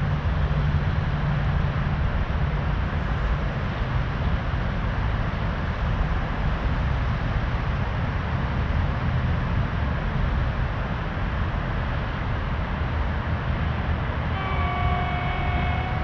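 Steady low rumble of an approaching passenger train hauled by an EP1M electric locomotive. About fourteen seconds in, a horn sounds a steady chord of several tones.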